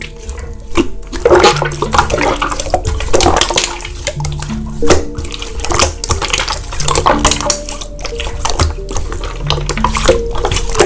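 Slime being squished and stretched, making irregular wet clicks and squelches, over background music of slow, held chords.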